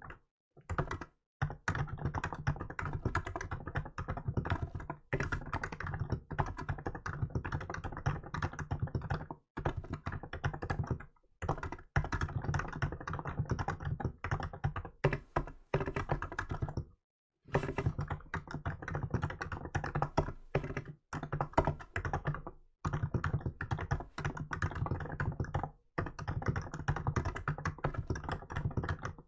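Continuous typing on a Hansung GK868B electro-capacitive keyboard with milk-coloured keycaps, the keystrokes in fast runs with short pauses between them. The key sound is deep and muted.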